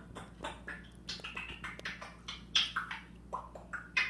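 A pet talking bird chattering in a quick run of short calls, some sliding up or down in pitch, loudest near the end.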